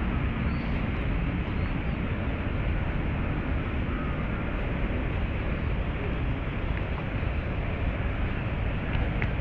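Steady low rumble of city traffic, even and unbroken, with a couple of faint short high chirps near the start.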